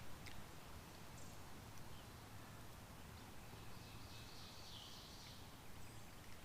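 Faint woodland background with a distant small bird singing briefly a little past the middle.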